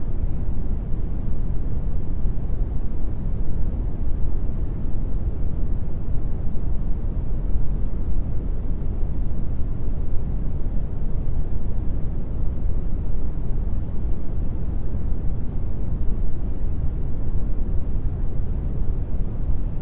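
Brown noise: a steady, even rush with no tones or changes, weighted strongly toward the deep end.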